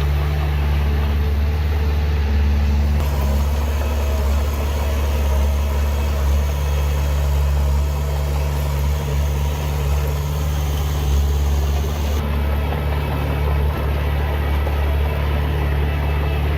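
Diesel engine of heavy earthmoving machinery running steadily with a constant low drone; the higher hiss shifts about three seconds in and again about twelve seconds in.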